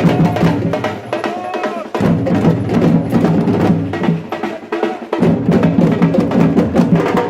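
Batucada samba percussion group playing a fast, dense rhythm of drums and sharp hand percussion. The deep bass drums drop out twice, once at the start and again around the middle, and come back in.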